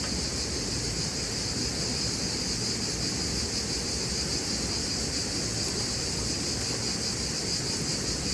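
Steady chorus of insects, a continuous high-pitched shrill trill, over a low steady background rush.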